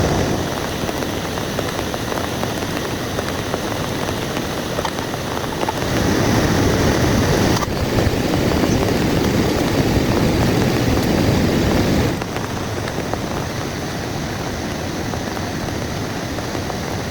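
Heavy rain pouring steadily. A deeper, louder stretch of rumbling noise runs from about six to twelve seconds in and cuts off suddenly.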